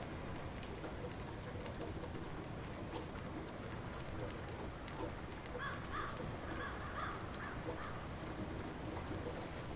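Light rain falling steadily, with a bird calling about six times in quick succession a little past halfway through.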